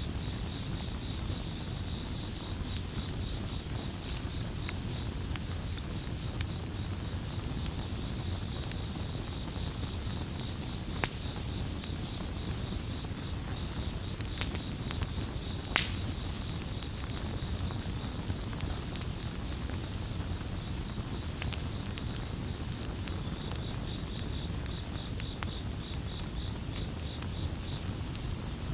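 Campfire crackling with scattered sharp pops over a low steady rumble, and a cricket's rapid pulsing trill that drops out for several seconds past the middle before resuming.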